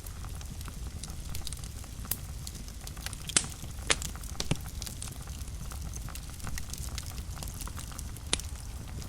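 Wood fire crackling in a fireplace: many small snaps over a low, steady rumble of flames, with a few sharper pops about three and a half, four and four and a half seconds in, and again near the end.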